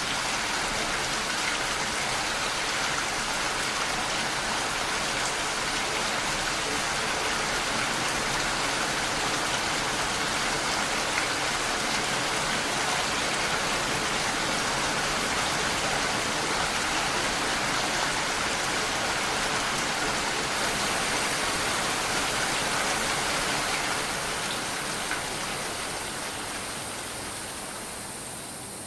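Steady rain falling, an even hiss of many drops that fades down over the last few seconds.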